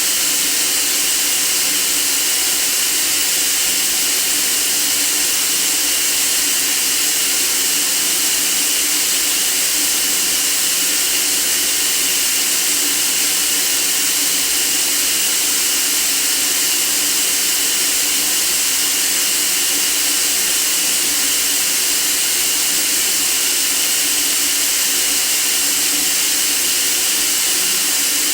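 Steady white noise: an even, bright hiss that holds the same level throughout, with no breaks or changes.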